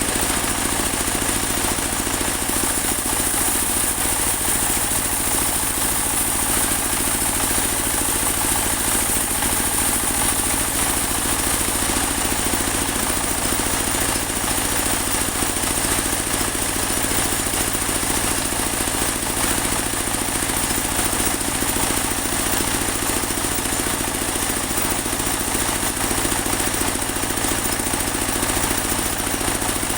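Portable band sawmill running steadily as it cuts a large teak log: the drive engine's drone and the band blade's steady high hiss, with no let-up.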